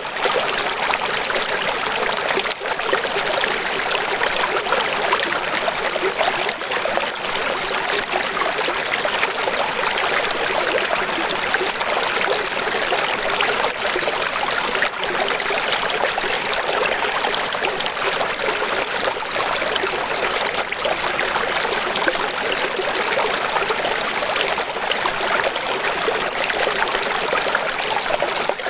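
Steady rushing water, an even hiss that holds without swells or breaks, thin and without any deep rumble.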